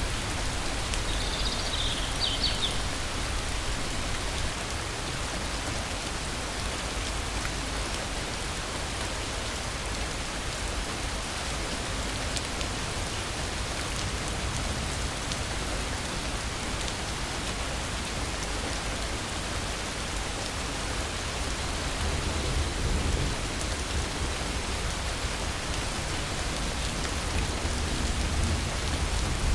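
Steady rain falling, with a short high chirp about two seconds in and a low rumble in the last few seconds.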